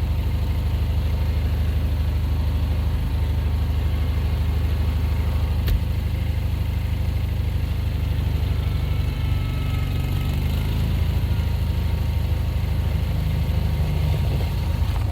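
Vehicle engine running steadily at an even, low speed, with one sharp click about six seconds in.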